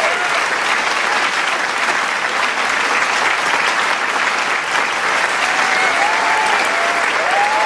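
A large crowd applauding steadily, with dense clapping and a few cheering voices rising over it near the start and again near the end.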